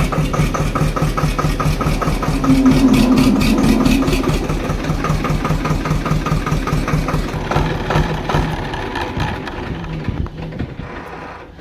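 Swaraj 724 XM Orchard tractor's two-cylinder diesel engine running with a steady, even knock after being started following a long lay-up. It gets louder for a moment about two to four seconds in, then fades and dies away near the end.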